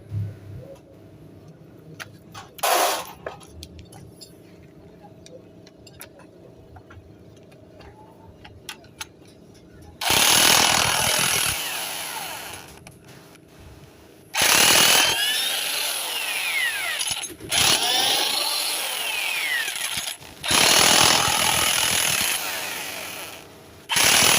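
A power tool run in five bursts of one to three seconds each, loud, with sweeping pitch as it spins up and down. Before it there are about ten seconds of light clicks and knocks.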